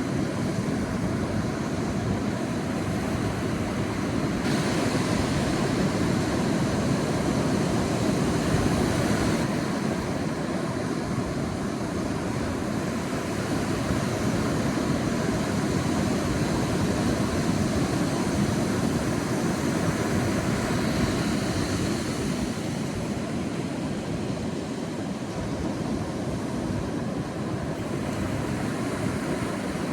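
Sea waves washing onto a beach: a continuous rushing surf that swells a little a few seconds in and eases again.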